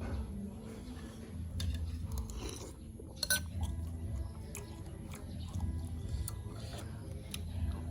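A person chewing food, with small clinks of a spoon against a dish and a sharper click a little over three seconds in, over a low steady hum.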